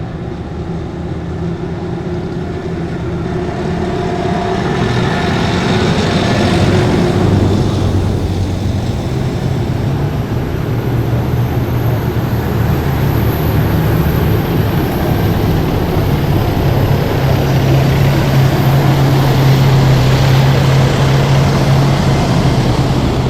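Heavy military vehicles driving past in a column, their engines droning low and steady, growing louder over the first several seconds and then holding.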